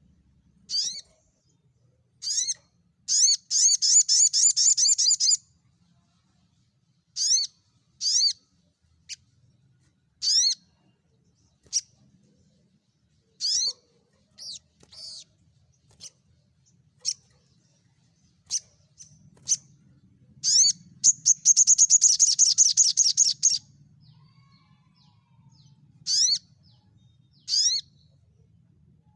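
Recorded small songbird singing: short, sharp, high notes that sweep downward, given singly or in pairs, broken by fast rattling trills. There is one trill early on and a louder, longer one past the middle.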